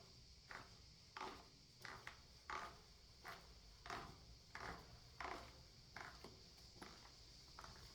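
Footsteps walking at a steady pace, about a dozen crunchy steps, one every two-thirds of a second, over a faint steady high-pitched hiss.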